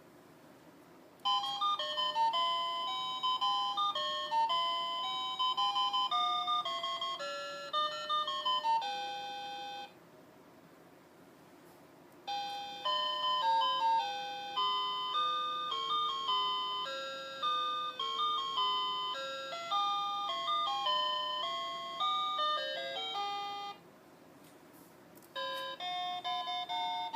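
Electronic melodies from a children's play-a-sound book's sound module. Three short tunes of plain beeping notes play one after another, with a pause of a couple of seconds between them.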